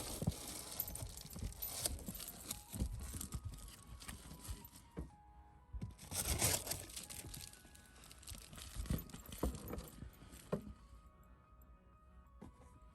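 Rustling and clattering of things being handled, with jingling, in two spells: from the start for about five seconds and again briefly about six seconds in, over quiet background music.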